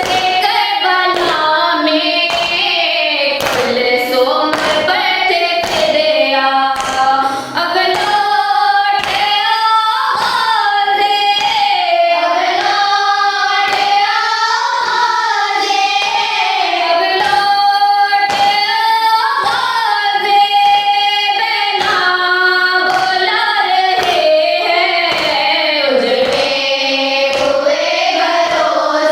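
A noha, a Shia lament, sung in a wavering melodic line, with voices joining in, over steady, regular hand slaps of matam chest-beating.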